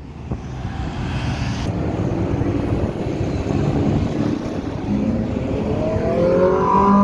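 Car engine accelerating past, growing louder, its note rising over the last few seconds.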